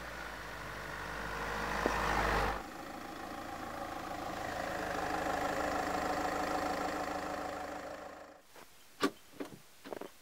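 Land Rover Freelander 2 SD4's 2.2-litre turbodiesel running as the SUV comes closer, getting louder, then cutting abruptly to another stretch of engine sound that swells and fades away. Near the end come a few sharp clicks and knocks from the tailgate latch and handle being worked.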